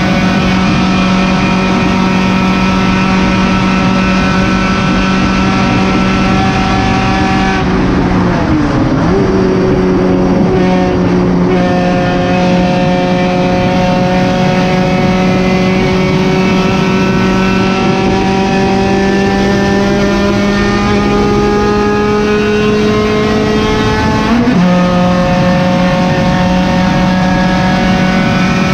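A 1991 Honda Civic's D16 1.6-litre four-cylinder engine running hard under race load, heard from inside the stripped cabin. About eight seconds in the revs dip briefly and recover, then climb slowly for some fifteen seconds before dropping suddenly near the end.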